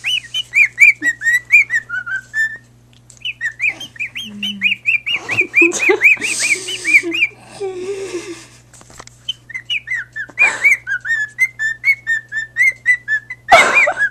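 Pet bird whistling in quick runs of short chirping notes, about four a second, broken by two short pauses, over a steady low hum.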